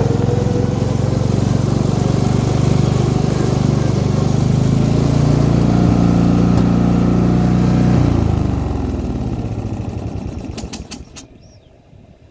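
MTD lawn tractor's engine running steadily at a high idle, then shut off about eight seconds in and winding down over a couple of seconds, with a few sharp clicks as it stops.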